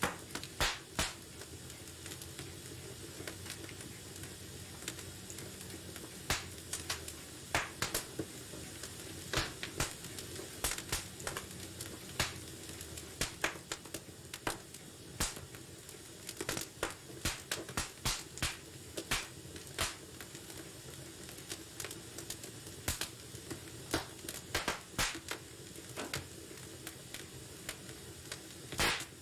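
Wood fire crackling in a fireplace: irregular sharp pops and snaps over a steady low hiss and rumble of burning.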